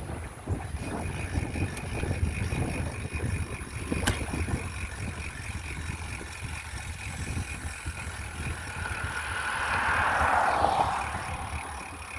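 Wind rumbling on the microphone during a bicycle ride, with a vehicle passing: it swells up and falls in pitch about nine to eleven seconds in.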